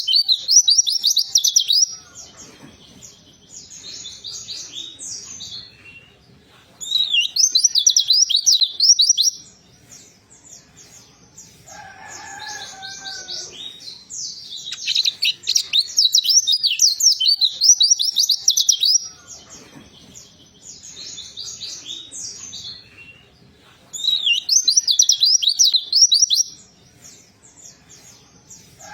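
White-eye (pleci) singing in loud, fast, high warbling phrases of a few seconds each, four times, with softer twittering between them. The recording is used as a lure song to get a silent pet white-eye to start singing.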